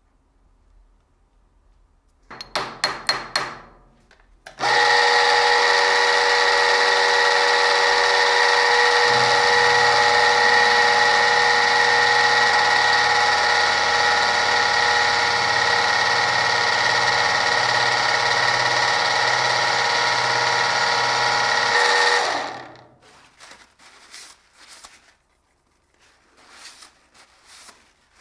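A workshop power tool running steadily for about seventeen seconds with a constant whine, then winding down and stopping. A short rattling burst comes just before it starts.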